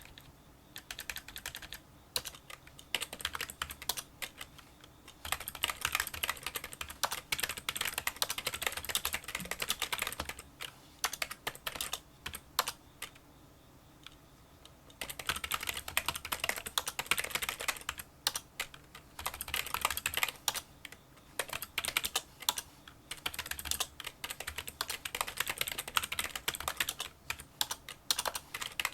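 Touch-typing on a Kinesis Freestyle Solo split keyboard with membrane key switches: small, fairly quiet clicking keystrokes in fast runs. About halfway through there is a lull of a few seconds where only a few single keys are struck.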